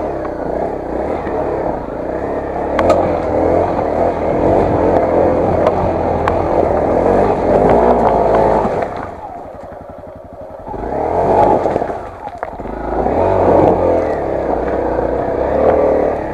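Honda CRF250L's 250 cc single-cylinder four-stroke engine running under load off-road, the throttle varying. It backs off to a low, pulsing run at about nine seconds, then picks up again twice. There are a few sharp ticks, like stones striking the bike.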